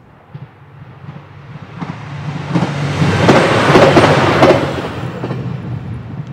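Diesel limited-express train passing: the engine hum and rail noise swell as it approaches, are loudest about three to four seconds in with wheels clacking over rail joints, then fade as it moves away.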